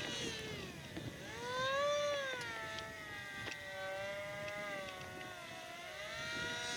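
Electric RC airplanes' motors and propellers whining in flight. The pitch rises and falls as they throttle and pass by, with a clear swell about two seconds in and another near the end.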